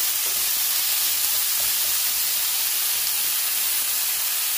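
Boiled spinach and green peas sizzling in hot oil in a frying pan, a steady hiss as their water cooks off.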